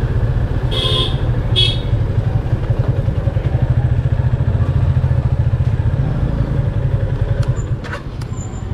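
Motorcycle engine idling steadily with a fast, even pulse. Two short horn beeps sound about a second in.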